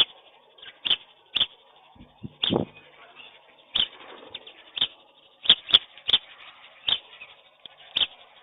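Feeding birds making a series of short, sharp clicks, irregularly spaced at about one or two a second, with a louder, fuller thump about two and a half seconds in.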